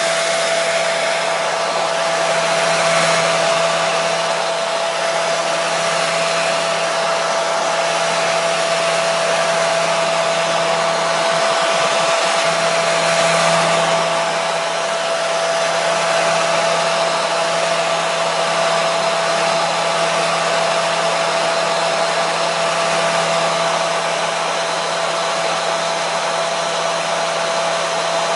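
Hair dryer running continuously at a steady speed: an even rushing hiss of blown air with a constant whine from the motor and fan.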